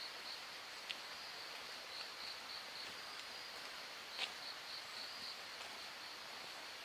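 Insects chirping at night, a high pulsing trill repeating over a faint hiss, with two short sharp clicks, one about a second in and one past four seconds.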